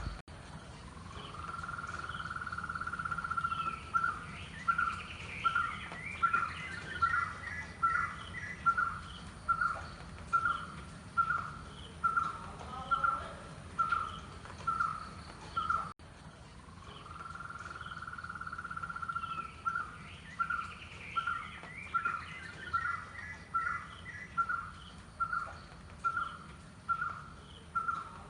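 White-cheeked barbet song: a long rolling 'trrr' trill, then a steady run of loud 'kutroo' notes at a little over one a second. The trill and note series start over a second time about halfway through. Other small birds chirp faintly in the background.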